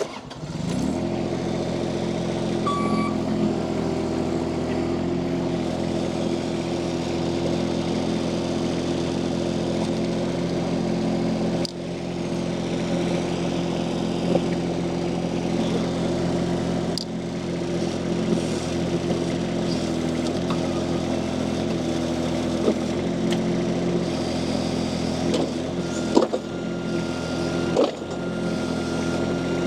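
Mini skid steer loader's engine running steadily, with a few short knocks along the way.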